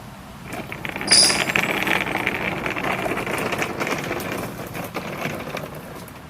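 Kärcher battery-powered lithium-ion pressure washer triggered about a second in, a brief high whine as it starts, then spraying for about four seconds before tailing off near the end.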